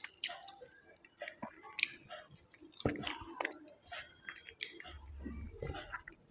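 Close-up sounds of a person eating chicken biryani with gravy: wet chewing and lip smacks in short irregular bursts, with a few crisper crunches.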